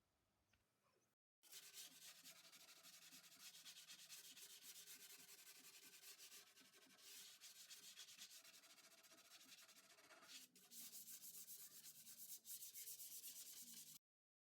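Sandpaper being rubbed back and forth over a plywood surface in quick, scratchy strokes. It starts abruptly about a second in, pauses briefly near the ten-second mark, and cuts off just before the end.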